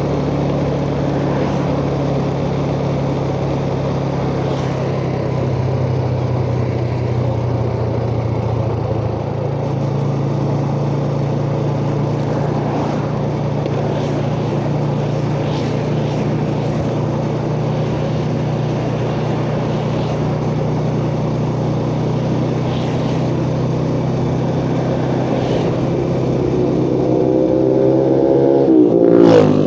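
Yamaha Jupiter Z motorcycle's single-cylinder four-stroke engine running steadily under way, its note shifting about a third of the way through. Near the end the revs climb in a rising pitch, then drop sharply.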